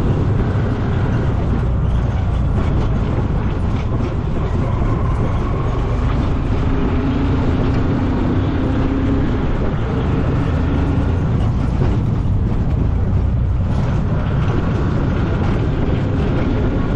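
A vehicle driving on a rough dirt road: a steady, loud low rumble with a wavering engine hum.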